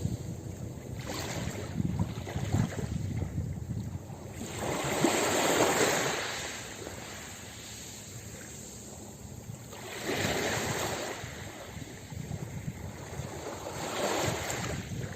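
Ocean waves washing onto a beach. Three slow surges of surf rise and fall a few seconds apart over a steady low rumble.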